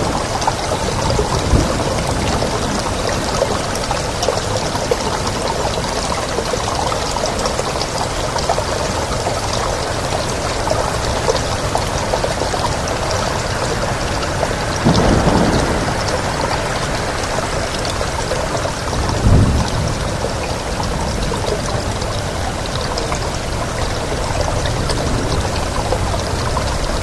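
Steady heavy rain, a dense hiss with fine pattering, with wind behind it. The wind swells briefly about halfway through, and there is a short low thump a few seconds later.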